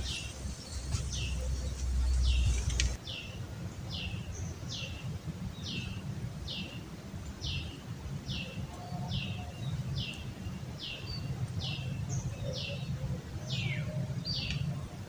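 A bird calling over and over, a short high note falling in pitch repeated about once a second. A low rumble underneath stops abruptly about three seconds in.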